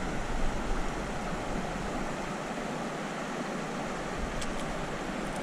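Steady rushing of a small river's water running over rocks and riffles.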